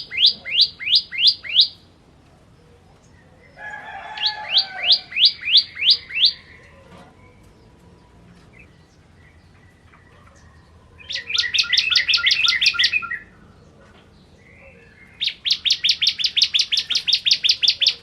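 Bar-winged prinia (ciblek kristal) singing: four loud trills of rapidly repeated sharp notes, each two to three seconds long, with pauses of a few seconds between them. The later trills are faster than the first.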